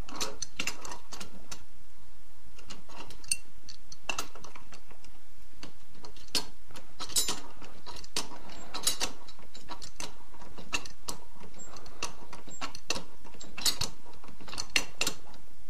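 Irregular sharp metal clicks of a hand tool working as a new diffuser is tightened hard into the front of a Titan LX80 airless spray gun, over a steady background hiss.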